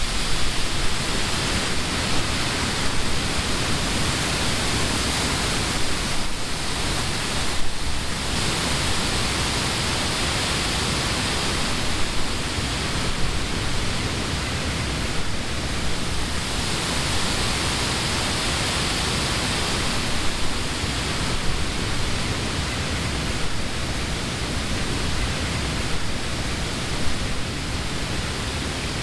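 Summer wind blowing steadily through leafy trees, a dense, even rustling hiss of foliage that swells slightly now and then.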